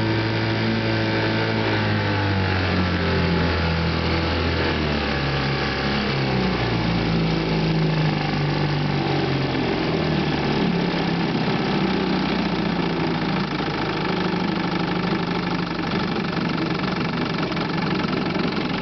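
1958 Johnson 3 hp two-stroke outboard motor running, dropping in speed a few seconds in and then running on steadily. It has an ignition misfire, which the owner suspects is a fouled spark plug.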